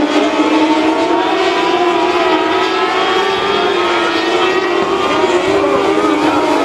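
Several small mini sprint race car engines running together at high revs, their pitches wavering and overlapping as the cars circle the dirt track.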